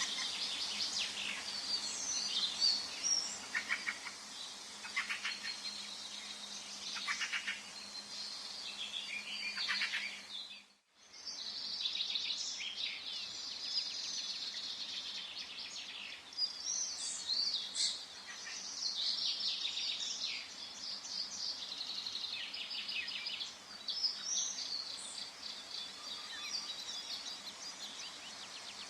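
Forest songbird chorus: many birds chirping and singing over one another, with rapid trills among the calls. About eleven seconds in, the sound drops out for a moment, then the chorus resumes.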